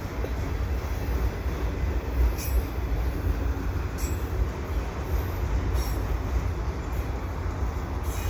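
Freight train cars rolling past on the rails with a steady rumble as the train slows, with a few brief high wheel squeals.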